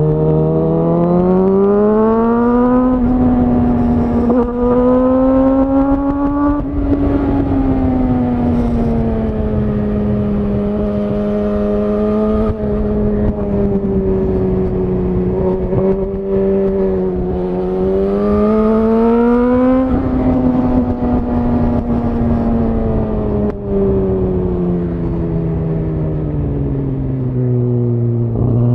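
Suzuki GSX-R1000R inline-four running through a Yoshimura R-11 SQ exhaust, heard on board while riding. The engine pitch climbs under throttle and eases off several times, falls slowly through the last third, then rises again near the end.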